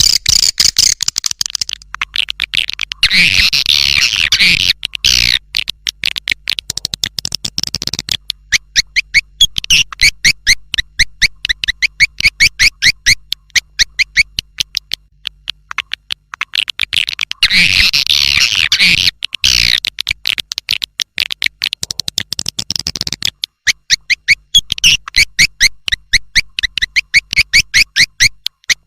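Swiftlet calls on a swiftlet-house lure track: long runs of rapid, high chirps at about three to four a second, broken by two denser bursts of twittering chatter, around three seconds in and again around seventeen seconds in.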